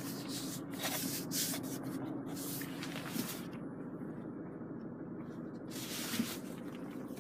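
Faint rubbing and rustling, in patches for the first few seconds and again briefly near the end, over a steady low hum.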